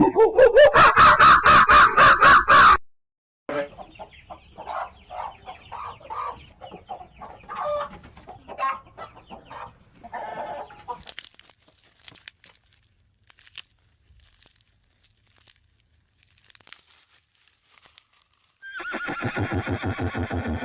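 Farm animal calls in sequence: a loud pulsing call ends about three seconds in, then hens cluck in short irregular calls. After a quieter stretch with faint clicks, a horse begins to whinny near the end.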